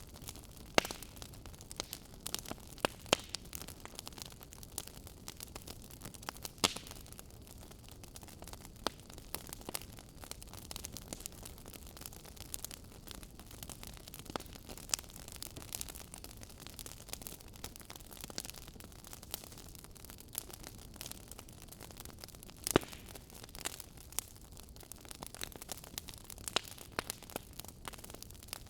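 Wood fire crackling: a steady low hiss scattered with irregular sharp pops and snaps, a few much louder than the rest.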